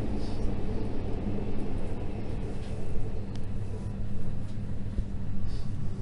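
Seibu Red Arrow limited express train heard from inside the passenger cabin as it pulls away: a steady low running rumble with a faint hum and a couple of brief clicks from the wheels and track.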